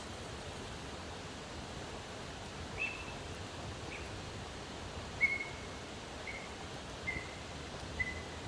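A bird calling: a series of short whistled notes about a second apart, each a little lower than the last, over a steady outdoor hiss.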